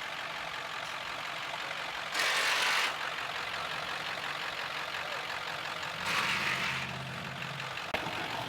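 Steady background with a vehicle engine running, broken by two short loud bursts of hiss, about two seconds in and about six seconds in. A low engine hum rises under the second hiss and stops just before a sharp click near the end.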